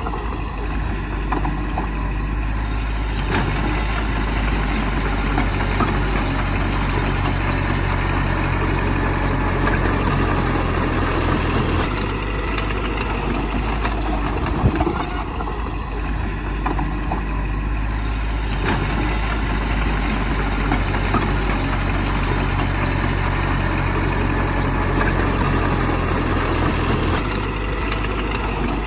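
Heavy diesel engine of earthmoving machinery running steadily, its note shifting with the load a few times, with a few sharp knocks.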